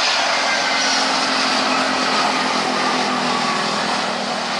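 Jet airliner flying past low on landing approach: a steady engine roar with whining tones that fall in pitch as it goes by.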